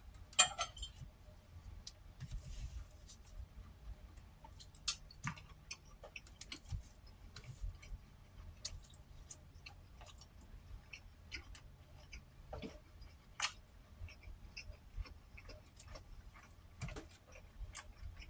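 Eating sounds: scattered light clicks and taps of utensils and dishes, with a few sharper clicks about half a second in and again near the thirteen-second mark.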